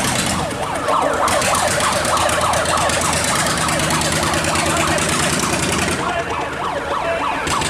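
Boat engines running steadily under a continuous rush of water, with a rapid, siren-like warbling sound over them.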